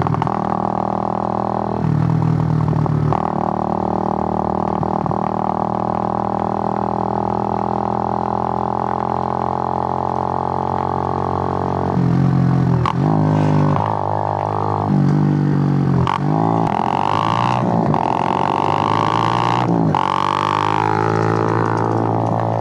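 Suzuki GN125's single-cylinder four-stroke engine running under way: a steady drone held for about ten seconds, then its pitch repeatedly drops and climbs again in the second half as the throttle is changed.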